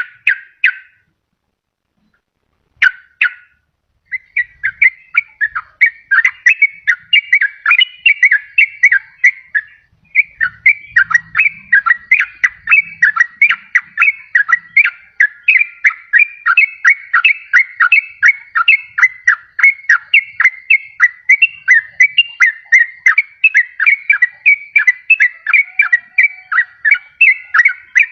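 Sooty-headed bulbul (trucukan) singing. Two short phrases come first, then from about four seconds in a long, fast run of whistled notes, several a second, with a brief break around ten seconds.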